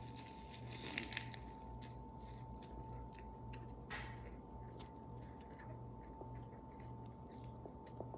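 A bite into a fried chicken sandwich on a pretzel roll, with a crisp crunch about a second in, then faint chewing over a steady low electrical hum.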